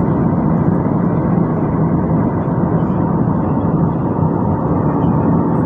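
Steady in-flight noise of an airliner heard from inside the passenger cabin: engine and airflow noise as a dense, even low hum that does not change.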